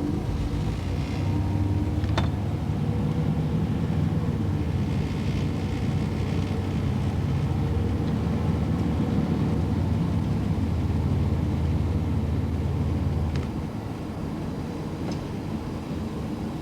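Car engine and road noise heard from inside the cabin while driving: a steady low drone that drops off and eases about three-quarters of the way through, with a single click early in.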